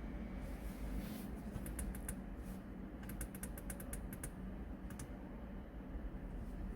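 Runs of quick clicks from the Audi Q2's MMI rotary control dial as it is turned and pressed to enter letters, over a low steady hum.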